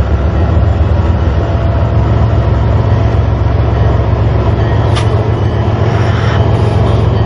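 Train running close by: a steady, loud low rumble, with one brief sharp high squeak about five seconds in.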